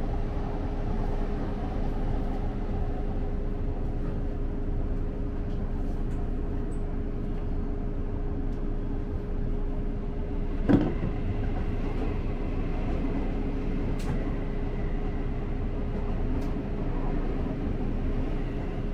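Electric commuter train heard from inside the driver's cab while running: a steady rumble of wheels on rail with a steady hum. About eleven seconds in there is a sharp bang as a train passes on the adjacent track, and its running noise follows.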